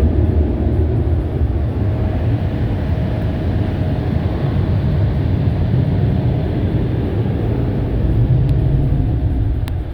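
Automatic car wash machinery working over the car, heard from inside the cabin: a loud, steady low rumble that sounds like thunder.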